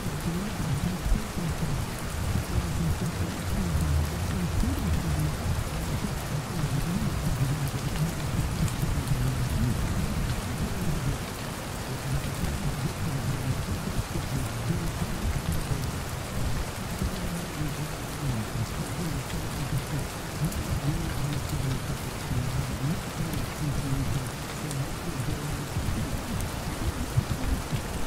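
Steady rain pattering on a surface, with a low rumble underneath that is strongest in the first ten seconds or so.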